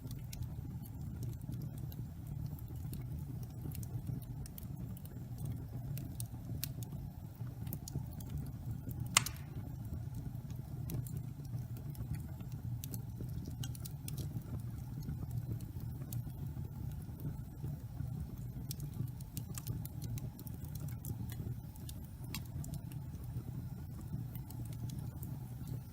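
Wood fire burning in a fireplace: a steady low rumble with scattered small crackles and one louder pop about nine seconds in.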